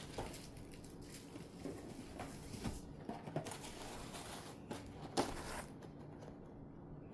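Quiet rustling and light knocks of packaging and boxes being handled and unpacked, with one sharper knock about five seconds in.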